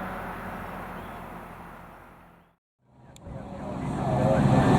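Road vehicle engine and traffic noise fading out to complete silence about halfway through, then a vehicle engine fading back in with a low, steady drone that grows louder toward the end.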